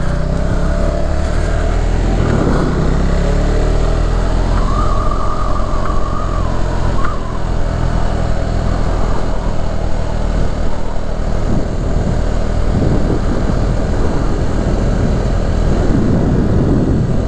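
Motorcycle engine running under way, its pitch rising a couple of seconds in as it pulls away through a turn.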